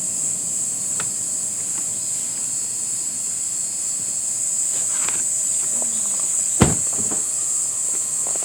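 Steady, high-pitched chorus of insects in a forest, with a few light ticks and one sharp thump about six and a half seconds in.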